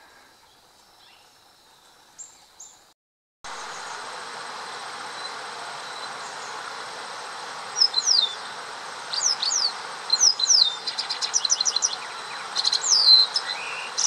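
Sharp, high bird calls, each a quick downward-sliding note, given singly and then in a fast run, over the steady rush of a shallow river running over stones. The first few seconds are faint woodland quiet with a couple of brief soft sounds, and the river sound starts abruptly about three seconds in.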